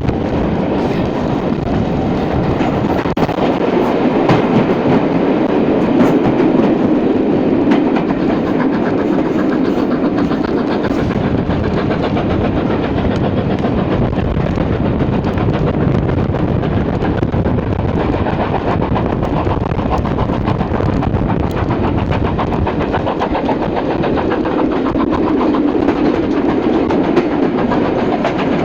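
Steam-hauled passenger train running steadily, with a continuous rumble and clatter of wheels on the rails.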